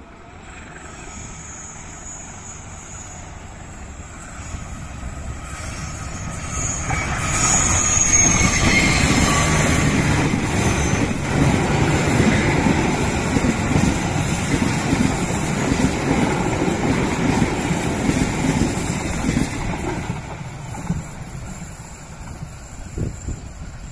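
A passenger train hauled by a CC 203 diesel-electric locomotive passing: the engine and wheels grow louder as it approaches, rumble and clatter over the rails from about eight seconds in while the coaches go by, then fade as it moves away.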